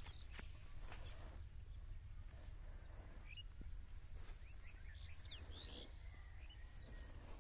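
Faint outdoor field ambience: a steady low rumble with a few short bird chirps about three to five seconds in, and a couple of soft clicks near the start.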